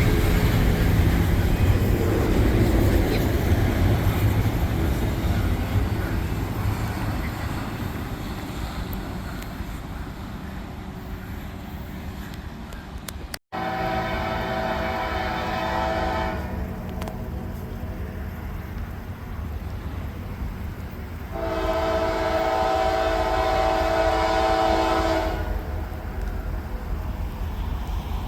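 Low rumble of a train fading away over the first half. After a sudden cut, a locomotive air horn sounds two long blasts of several notes together; the second blast is longer, about four seconds, and comes a few seconds after the first.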